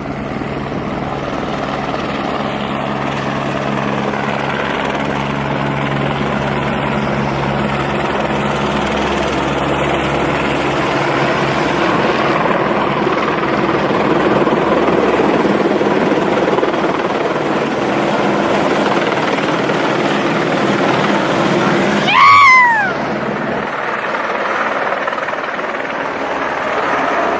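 Helicopter flying overhead: a steady, loud rotor and engine noise with a low hum underneath. About 22 seconds in, a brief loud pitched sound slides downward.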